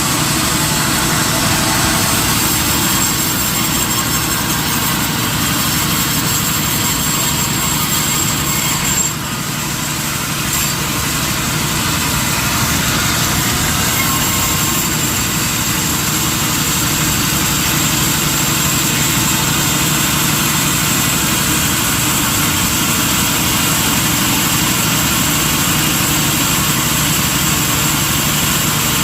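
Sawmill machinery running steadily: a continuous mechanical drone with a low hum and a thin high whine, briefly dipping in level about nine seconds in.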